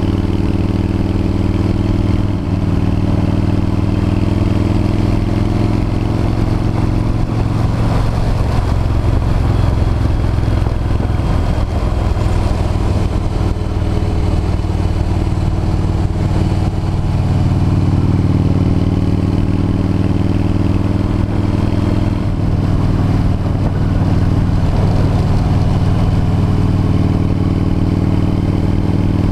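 V-twin cruiser motorcycle engine running steadily at road speed, loud throughout. Its note shifts in pitch a few times, about eight, sixteen and twenty-two seconds in.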